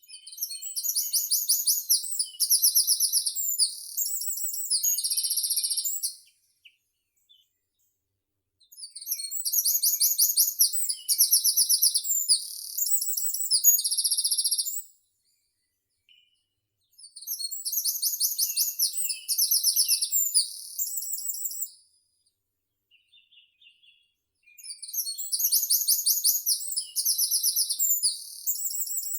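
A songbird singing the same phrase of fast, very high-pitched trills four times, each phrase about five to six seconds long, with short silent pauses between.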